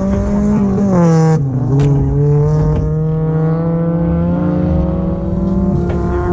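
Rallycross car's engine running hard under load. The revs drop sharply about a second in, then it pulls steadily again with the revs holding high and rising slowly.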